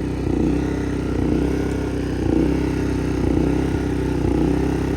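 Portable generator engine running steadily under the load of a flux-core welder, its level swelling and easing about once a second.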